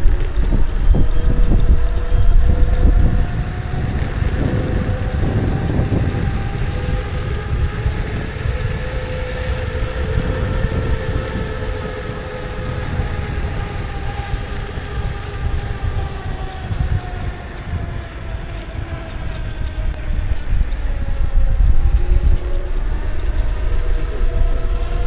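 Kukirin G2 electric scooter's motor whining in several pitches at once that slowly rise and fall with speed, over heavy wind rumble on the action camera's microphone. The rumble is strongest in the first few seconds and again near the end.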